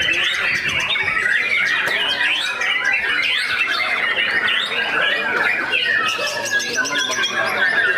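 Many caged songbirds singing at once: a dense, unbroken mass of overlapping chirps, whistles and rapid trills.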